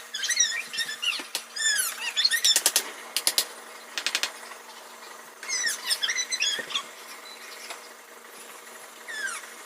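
High-pitched chirps and squeaks from a small animal, in quick clusters with short quiet spells between them.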